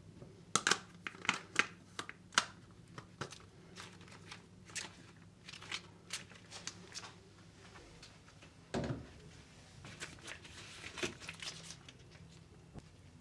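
Irregular clicks, taps and light rustling of small objects being handled by hand, with a duller knock about nine seconds in.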